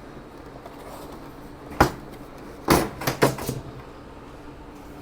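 A sharp click about two seconds in, then a quick run of knocks and rattles: the wall mounting plate being unfastened and pulled off the back of a mini-split indoor unit.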